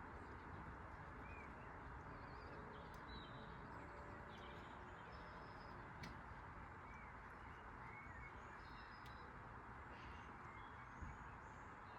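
Very quiet steady background noise with faint, scattered bird chirps.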